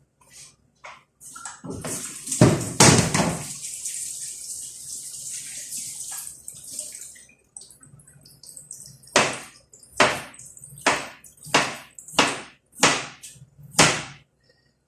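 Kitchen cooking sounds: a hiss lasting several seconds, with two loud clatters near its start, then a run of about seven evenly spaced knocks.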